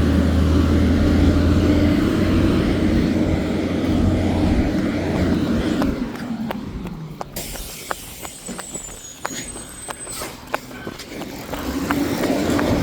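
Garbage truck's engine revving high while the truck works a load of trash. It drops back about halfway through, leaving a run of sharp clicks and knocks with a faint high squeal, then starts to rise again near the end.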